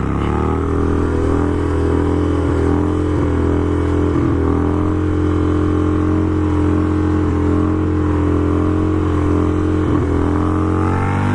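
Motorcycle engine running at a steady cruising speed while riding, with an even note that dips briefly a few times.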